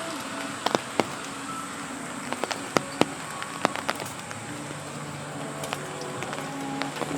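Steady hiss of rain on a street, broken by irregular sharp ticks of heavier drops landing close by, about a dozen of them.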